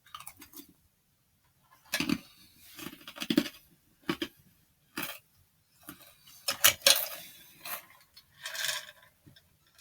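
A spoon clinking and scooping through dry Kix cereal: a string of irregular light clicks and rattles, with a longer rustling patch near the end.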